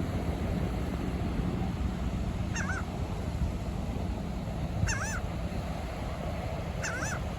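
A gull calling three times, short arched squawks a couple of seconds apart, over a steady low rumble of wind and surf.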